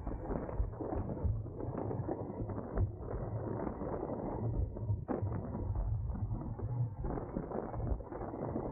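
Racing bicycle ridden in a pack: muffled wind and road rumble with irregular clicks and rattles from the bike's drivetrain and freehub.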